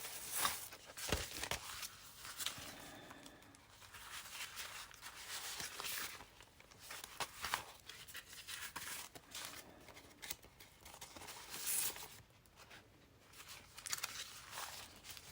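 Paper being handled: irregular rustling and crinkling with a few short, sharper handling sounds.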